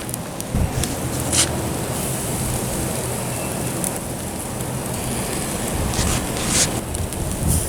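Firewood fire crackling under grilling chicken: a steady hiss with a few sharp pops, and wind rumbling on the microphone.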